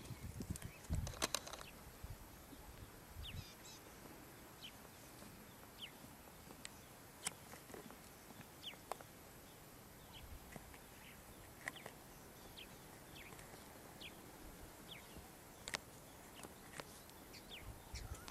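Faint outdoor bush ambience with scattered short, high bird chirps. A few low thuds come in the first few seconds.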